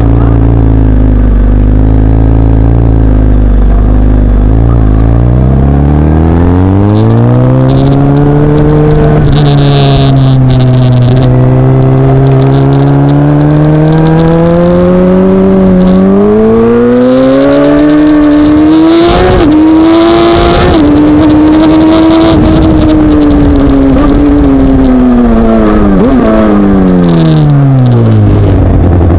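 Suzuki GSX-R1000 K7's inline-four engine at low revs at first, then climbing in two long rises under acceleration and winding down near the end. Bursts of wind rush cover it at the fastest stretches.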